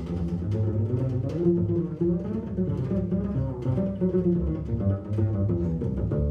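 Upright double bass played pizzicato, unaccompanied: a jazz bass solo of quick plucked notes.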